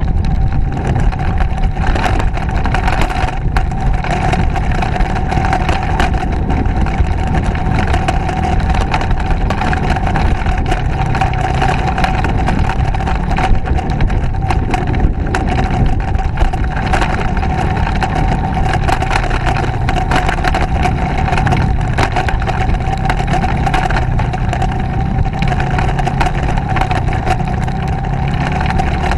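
Motorcycle engine running steadily while riding, with a constant hum and a dense crackle of small clicks and knocks over it.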